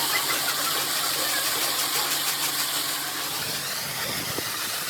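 Steady machinery noise with a low hum, the hum stopping about three seconds in.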